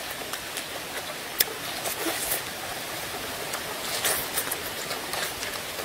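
A person chewing and biting into a peeled bamboo shoot, with a few short, sharp crunching clicks, over a steady hiss.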